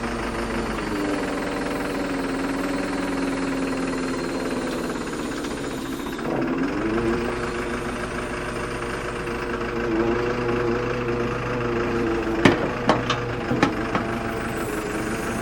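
Excavator diesel engine running while the hydraulic arm is worked to test a newly routed hydraulic hose; the engine pitch sags a little, then rises and holds steady about six seconds in. Near the end come four or five sharp clanks.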